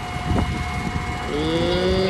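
Hydraulics of a grapple-loader garbage truck whining as the loader works a grab of debris. A steady whine runs throughout, and a little over a second in a deeper rising groan joins it and then holds.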